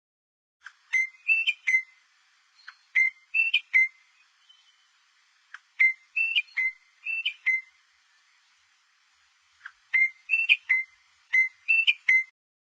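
A songbird singing short phrases of three or four clear whistled notes, repeated about six times with brief pauses between.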